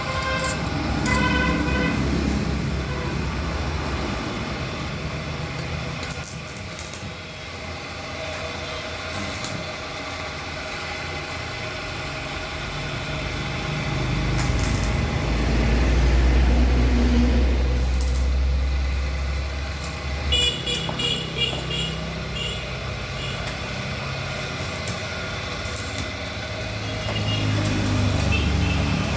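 An engine running, with a low rumble that swells louder in the middle and eases off, and a few short horn-like toots about a second in and again later.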